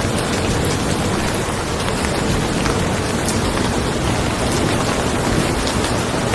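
Steady rain falling on a car, with scattered single drops ticking through it and a low rumble of thunder underneath.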